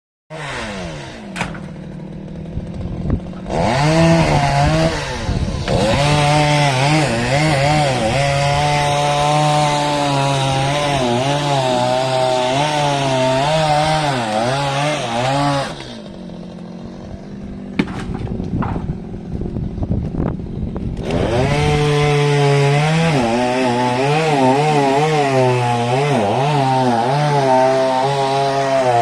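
Chainsaw idling, then revving up about four seconds in and running at full throttle, its engine pitch sagging and recovering as it works through wood. It drops back to idle about 16 seconds in, then revs up and cuts again about 21 seconds in.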